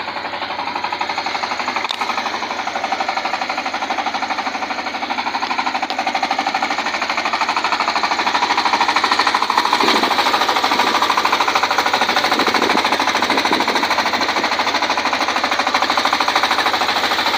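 Diesel engine of a small three-wheeled dump truck running with a rapid, even clatter, growing louder about eight seconds in.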